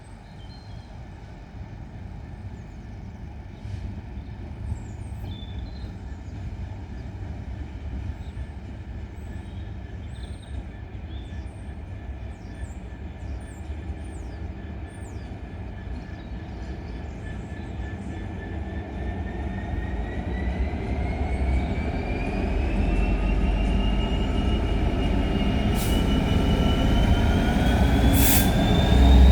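GBRF Class 66 diesel-electric locomotive, with a Class 69 coupled behind, approaching and growing steadily louder as a light engine move. Its low engine rumble builds, and over the last ten seconds a whine rises in pitch as the locomotives power up. Birds chirp faintly in the first half.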